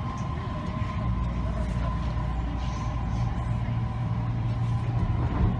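Canada Line train running, heard from inside the car: a steady low rumble that grows heavier about a second in, with a steady whine over it.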